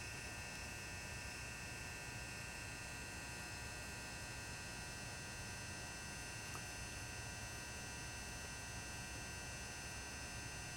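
Faint steady hum of a 400-watt mercury vapour high-bay lamp's core-and-coil ballast running the lit lamp, with several fixed tones, low and high.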